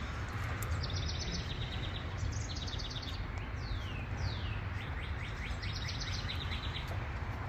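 Wild songbirds singing: several short, high, rapid trills and a few down-slurred whistles, over a steady low rumble of outdoor background noise.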